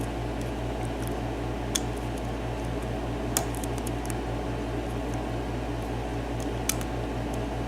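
Lock pick working the pin stacks of a Dorma seven-pin cylinder lock under light tension: small metallic clicks, three of them standing out, over a steady, rapidly pulsing hum.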